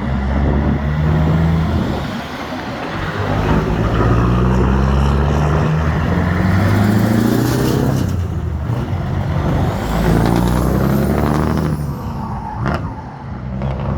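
Vintage trucks' engines running as they drive past one after another, the engine note rising and falling.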